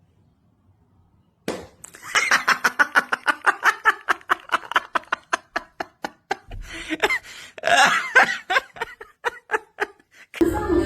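A person laughing hard: a long run of quick ha-ha-ha beats, starting about a second and a half in after near silence.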